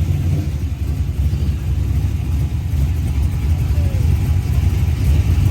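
Car engines idling with a steady deep exhaust rumble.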